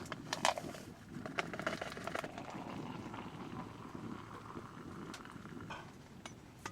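Pot of water boiling on a hot-tent wood stove: a steady low bubbling, with a few sharp clicks scattered through it.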